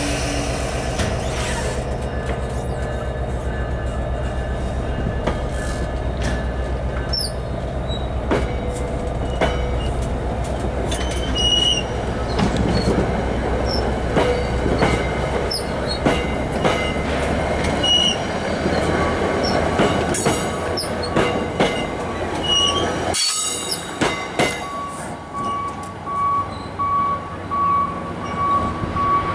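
NJ Transit Comet coaches rolling past at low speed under a steady low drone, the wheels clicking over rail joints with short, high flange squeals. The sound breaks off sharply a little after two-thirds of the way in and gives way to a quieter distant-train scene with a pulsing tone.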